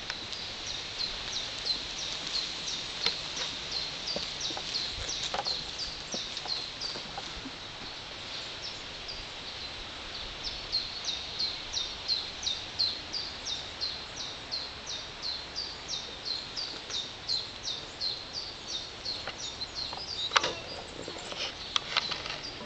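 A small songbird singing a long string of short, high, downward chirps, about two a second, with a break of a couple of seconds midway. Near the end, a few sharp knocks.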